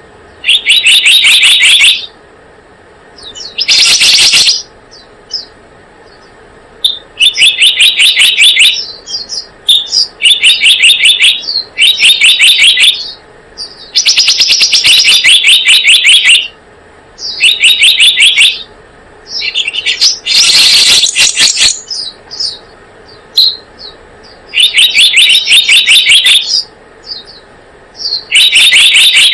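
Recorded lure call of the selendang biru bird: loud bursts of rapid, fast-repeated chirping notes, each burst lasting one to two seconds and coming again after short pauses, again and again.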